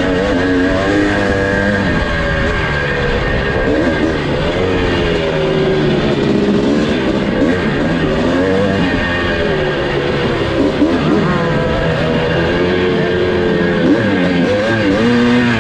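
1982 Husqvarna 430 two-stroke motocross engine revving up and falling back again and again as the bike is ridden hard around the track.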